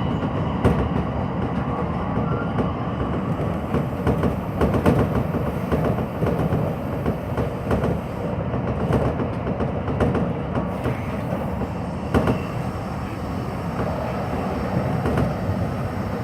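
Hanshin Electric Railway train running at speed, heard from inside the car: a steady rumble from the wheels on the rails, with irregular sharp clacks scattered through it.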